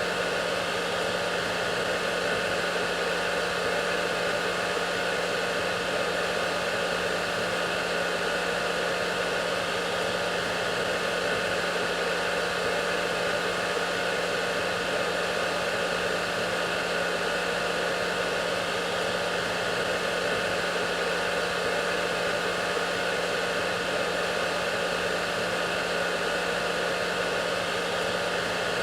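Hair dryer running continuously: a steady, even rush of air with a low motor hum beneath it.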